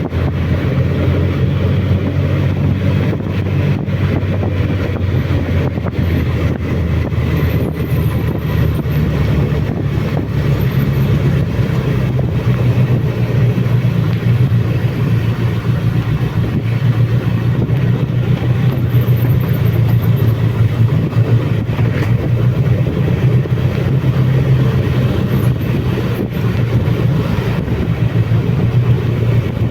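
Suzuki Bandit motorcycle's inline-four engine running steadily while riding downhill, with wind noise over the microphone.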